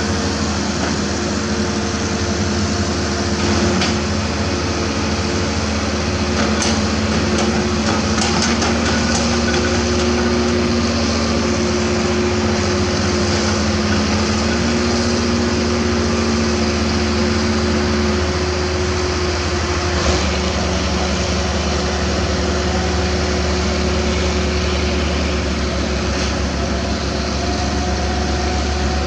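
Hitachi Zaxis 200-5G crawler excavator's Isuzu 4HK1 four-cylinder diesel running steadily under working load, with a held hydraulic whine over it. The whine's pitch shifts a few times, and about two-thirds of the way through the tone drops to a lower note.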